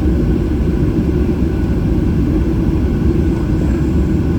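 Cabin noise inside a Boeing 737-800: a steady, loud low rumble from its CFM56 jet engines and airframe.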